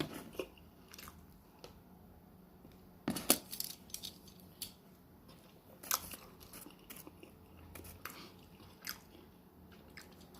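Close-up chewing and biting of a turkey and cheese sandwich: scattered short mouth smacks and clicks, loudest in a cluster about three seconds in.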